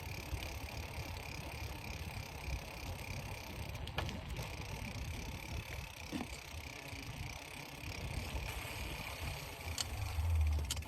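Bicycle being ridden: a steady low rumble with a few light clicks, the rumble swelling near the end.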